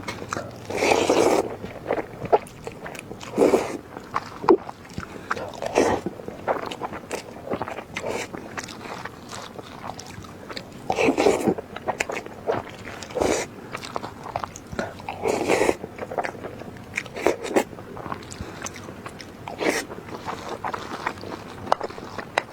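Close-miked eating: a person biting and chewing food in irregular bursts of wet, crunching mouth sounds.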